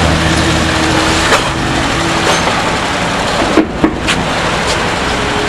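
Steady background vehicle noise with a low engine hum in the first second or so, and a few sharp clicks and knocks, a cluster of them a little after the middle.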